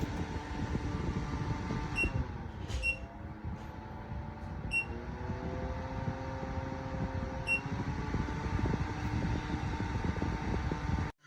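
Small portable air cooler fan running with a steady hum, with four short electronic beeps from its control buttons. The pitch of the fan's hum dips and shifts after the beeps, as its speed setting changes.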